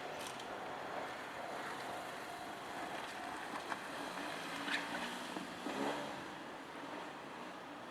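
Nankai Kada Line train moving away from the level crossing: a steady rumble with a couple of sharp clicks about four and five seconds in.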